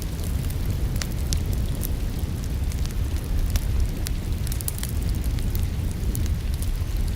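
Wood fire crackling in a fireplace: scattered sharp pops and snaps over a steady low rumble, mixed with rain.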